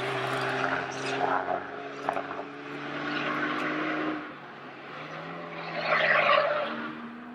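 Renault Megane 4 RS's turbocharged four-cylinder engine running under throttle, its note climbing gently for about four seconds, then falling away before a second louder surge near the end, with a few short crackles.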